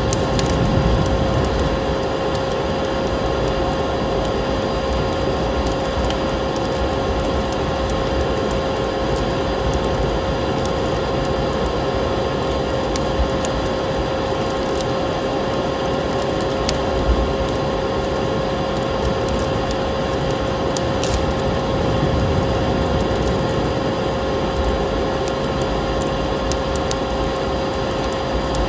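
Crackling wood fire with scattered sharp pops and snaps, layered over a steady rushing noise that carries a constant mid-pitched whine.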